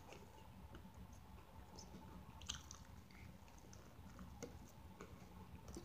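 Faint chewing and biting of a bacon, egg and cheese biscuit sandwich, with soft mouth clicks scattered throughout and a slightly louder one about halfway through.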